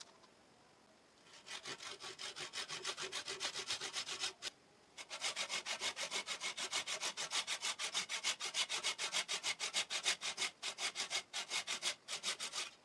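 Rapid back-and-forth strokes scraping across wood, about four a second, with a short pause about four and a half seconds in.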